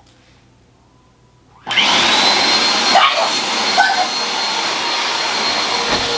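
Vacuum cleaner switched on about a second and a half in: its motor whines up to speed, then runs loud and steady.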